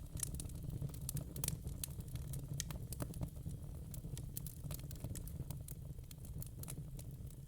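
Wood fire in a fire pit crackling, irregular sharp pops and snaps over a steady low rumble.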